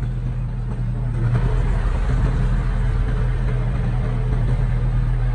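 Engine of a heavy construction machine running steadily with a low hum, growing louder about a second in.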